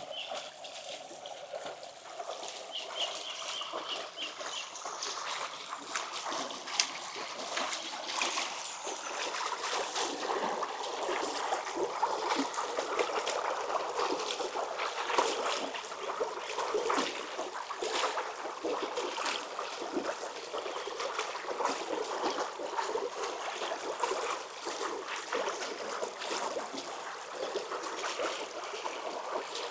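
Small shallow stream running and splashing over stones, growing louder about six seconds in. A bird gives a short run of quick repeated chirps near the start.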